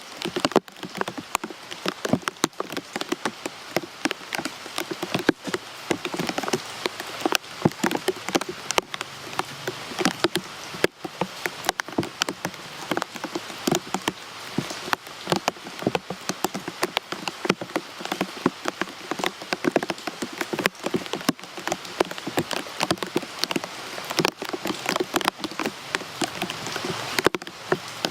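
Steady rain falling on a surface: a constant hiss with many close, sharp drop taps, several a second.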